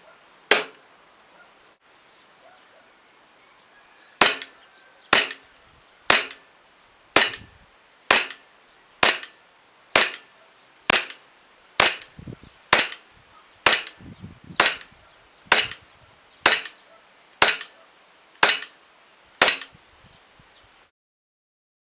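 Gas blowback airsoft pistol, a VFC Glock G17, being fired one shot at a time. Each shot is a sharp crack. After a single shot and a pause of a few seconds, about seventeen more follow at a steady pace of roughly one a second.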